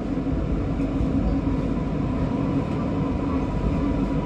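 MRT Kajang Line metro train running, a steady rumble of wheels and running gear with a constant faint tone above it, as it approaches its terminal station.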